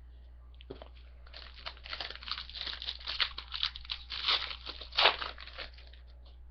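A trading-card pack wrapper being torn open and crinkled: a run of crackling that starts about a second in and stops shortly before the end, loudest just before it stops.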